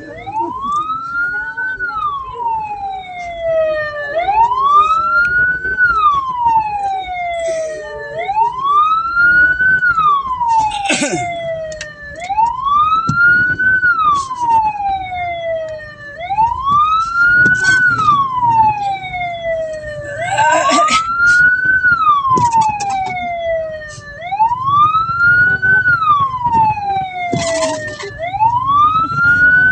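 Hearse siren wailing, a slow rise and fall in pitch that repeats about every four seconds, with a few short noisy bursts over it.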